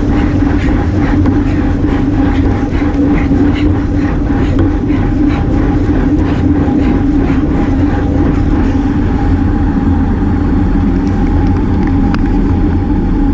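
Steady rumble of wind and tyre noise from a bicycle ride, picked up by a GoPro, with a constant hum underneath.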